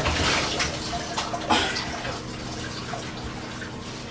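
Water splashing and pouring in a bathtub as a dog is bathed, with a louder splash about a second and a half in, then a quieter slosh.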